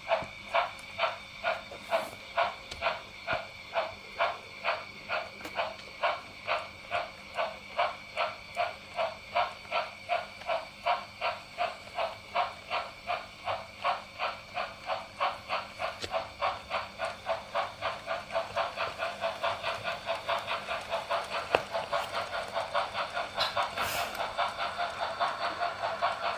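Model steam locomotive's sound unit chuffing in an even rhythm, about two puffs a second, speeding up toward the end as the train gathers pace.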